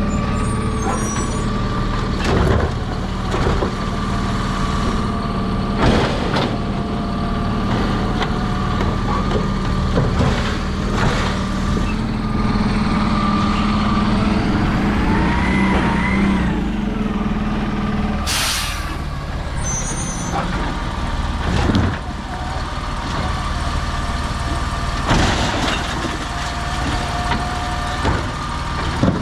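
Autocar refuse truck with a Labrie Automizer side-loader body, its engine running steadily. Mid-way a whine rises and falls, followed by a short loud air-brake hiss, with scattered knocks throughout.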